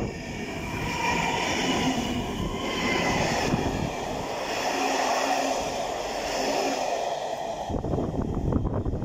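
Electric train running at the station, a steady whine with several tones over rumbling noise, dropping away near the end. Gusty wind buffets the microphone as it fades.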